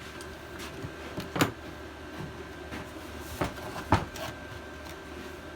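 A few sharp knocks and clunks of things being handled, the loudest about four seconds in, over the steady hum of a diesel space heater.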